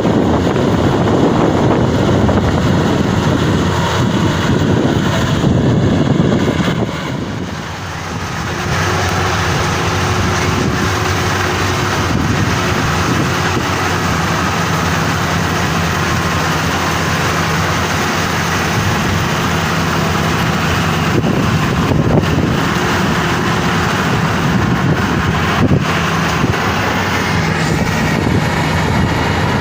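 Maxxi Bimo 102 rice combine harvester running steadily at working speed, with a short dip in level about seven seconds in.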